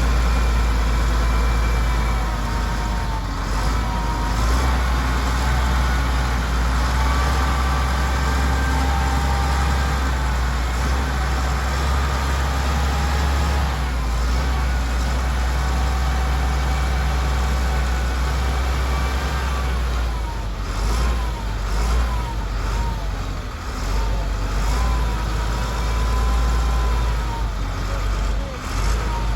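Heavy diesel engine of a wheel loader running steadily under a deep low rumble, with a higher whine that shifts up and down in pitch in the second half.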